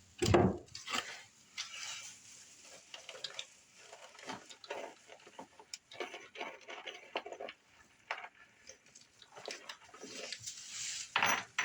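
Irregular small clicks, clinks and knocks of tools and hardware being handled, with a louder knock about a third of a second in and another near the end.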